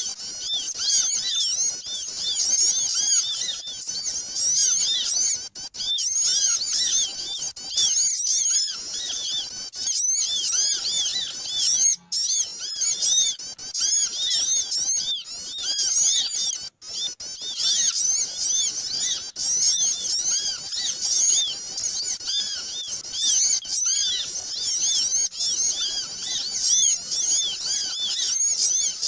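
Bird-lure recording of many small birds chirping in a dense, noisy chatter of short rapid high notes, used to draw small birds in. The sound briefly drops out a few times.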